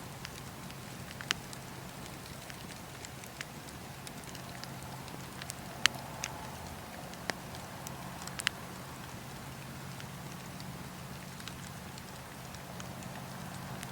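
Wood fire in a fireplace crackling: irregular sharp pops and snaps over a steady low hiss and rumble of burning, the loudest pop about six seconds in.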